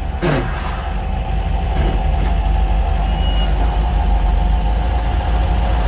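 1967 MGB GT's four-cylinder engine running steadily, heard from inside the car, its level swelling a little over the first second or so.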